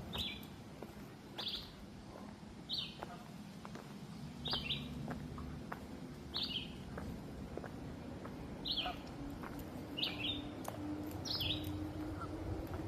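A songbird repeating one short, slightly falling call about every one to two seconds, with a faint low hum underneath.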